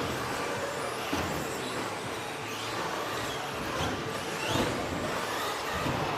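Electric RC stadium trucks with 13.5-turn brushless motors racing on a dirt track: their motors and drivetrains whine, rising and falling repeatedly as the trucks accelerate and brake, over a steady rush of noise.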